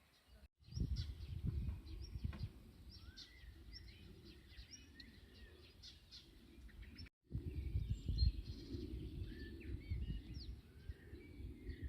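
Wild birds chirping and calling, many short chirps and whistles, over an uneven low rumble on the microphone. The sound drops out briefly twice, about half a second in and about seven seconds in.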